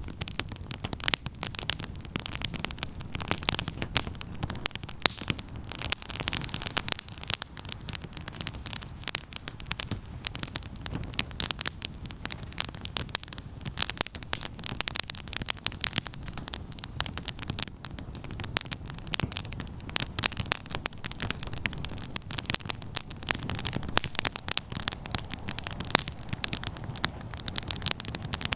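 Wood campfire crackling, with dense, irregular sharp pops and snaps over a low steady rumble of the flames.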